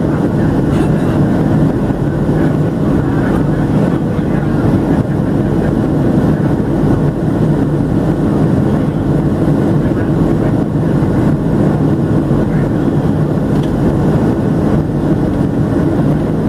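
Steady cabin noise of a Boeing 737-700 with its CFM56-7B engines running: an even, low rumble and rush that stays the same throughout.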